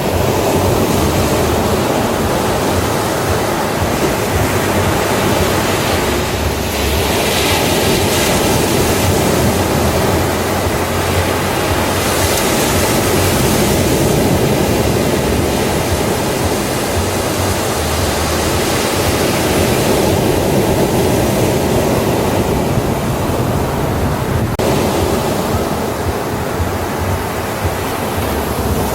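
Ocean waves breaking on a beach: a constant roar of surf, with the hiss of wash swelling a few times as waves come in.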